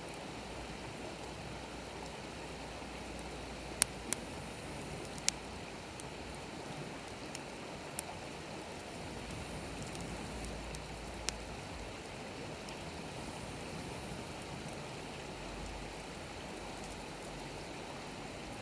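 Firewood burning in a campfire: a steady low hiss with a handful of sharp pops and crackles at irregular intervals.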